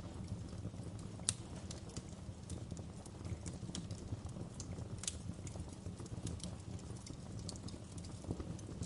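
Wood fire crackling: irregular sharp pops and snaps over a low, steady rumble of the fire, with one louder pop about a second in.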